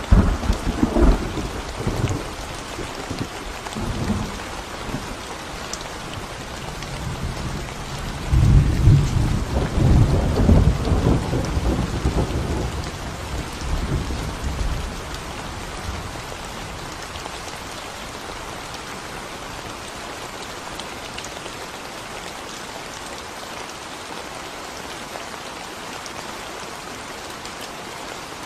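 Steady rain falling on a concrete road, with thunder: rumbles in the first few seconds, then a longer, louder rolling rumble from about eight to fifteen seconds in, after which only the rain goes on.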